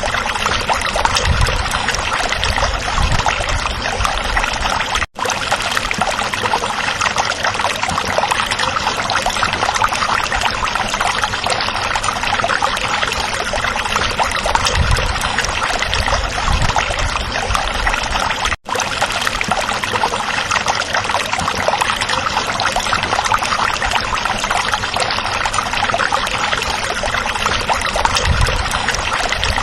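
Stream water running in a steady, even rush of babbling and trickling, briefly dropping out twice for a split second.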